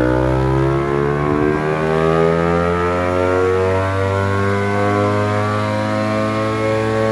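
Yamaha MT-25's 249 cc parallel-twin engine, breathing through a WRX GP3 aftermarket exhaust, held at full throttle in a dyno pull, its pitch rising steadily as the revs climb, then dropping off sharply near the end.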